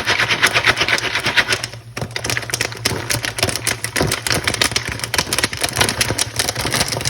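Jiffy Pop popcorn popping in its foil pan on a hot stove: a fast, dense stream of pops and crackles, thinning briefly about two seconds in.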